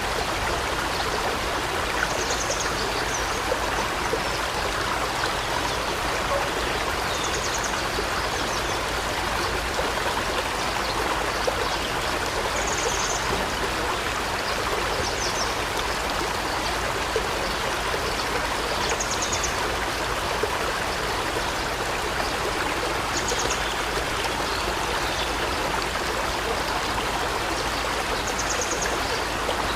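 River water flowing steadily, with a bird giving short, high calls every few seconds.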